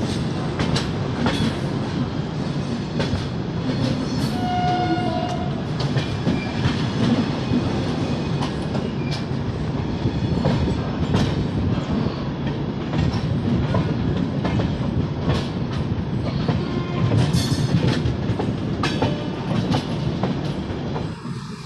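Avadh Assam Express passenger train running on the line: a steady rumble of wheels on rail with repeated clicks and knocks as the wheels pass over rail joints. A short tone sounds briefly about four and a half seconds in.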